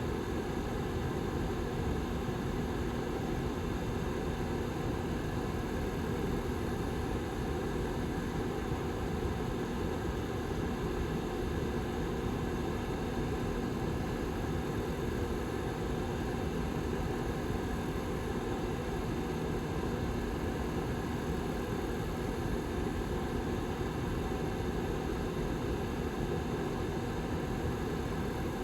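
Rear fan of a Lasko 755320 ceramic tower heater running steadily: an even rush of air with a low steady hum underneath.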